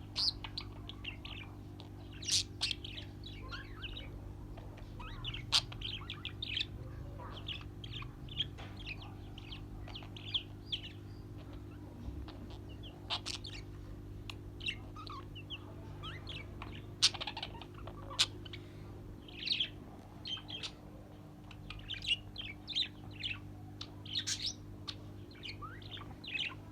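Pet birds chirping: many short, quick chirps scattered throughout, over a steady low hum.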